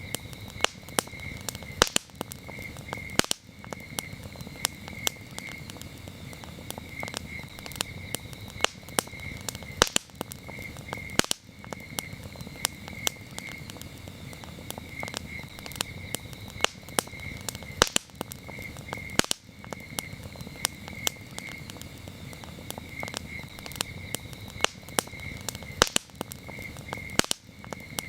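Campfire crackling, with frequent sharp pops over a low, steady rush of burning wood, while crickets chirp steadily in a pulsing, high-pitched trill.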